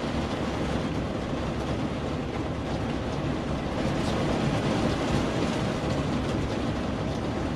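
Heavy storm rain, with hail starting, drumming steadily on the vehicle's roof and windshield, heard from inside the cabin as a dense, even patter.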